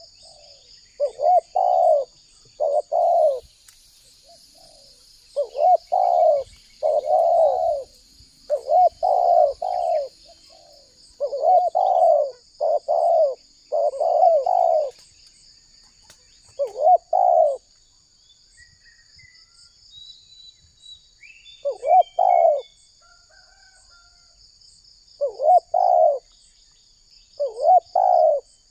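Spotted dove cooing: clusters of short, quick coo notes repeated over and over, with a pause of several seconds in the middle. A steady high insect drone runs underneath, and a few small bird chirps come in during the pause.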